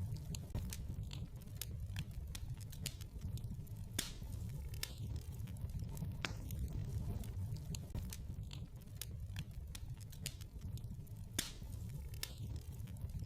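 Wood fire in a fireplace crackling: a steady low rumble of flames with irregular sharp pops and snaps, a couple of them louder than the rest.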